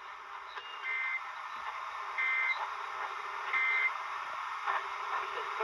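Emergency Alert System data tones from KDKA's Required Weekly Test, heard on a distant AM radio signal: three short warbling beeps about a second and a third apart, over steady radio hiss and static.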